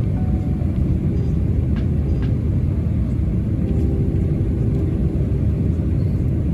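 Steady roar of a Boeing 747-400 in flight, heard inside the economy cabin: engine and airflow noise, deepest in the low range and unchanging.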